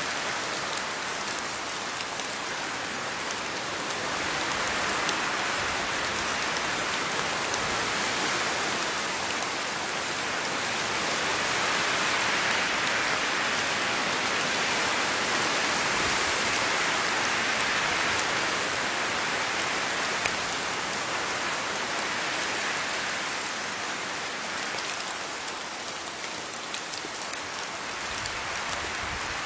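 Steady rain falling on leaves, a dense patter of many fine drops that swells a little in the middle and eases slightly near the end.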